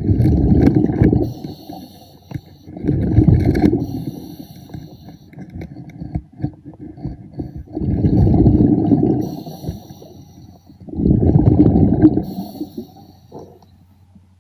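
Underwater diver's breathing: four bursts of exhaled bubbles rushing out a few seconds apart, with faint crackling and clicking between breaths.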